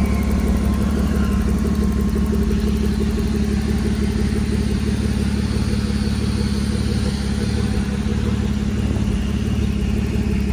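Toyota 1G-FE 2.0-litre inline-six engine idling steadily, with an even, unchanging note.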